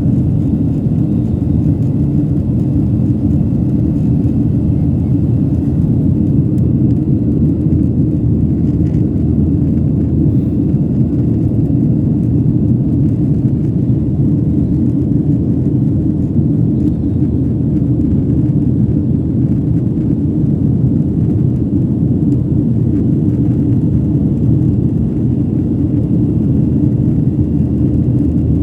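Airliner in flight heard from inside the cabin: a steady, loud, low rumble of engines and airflow.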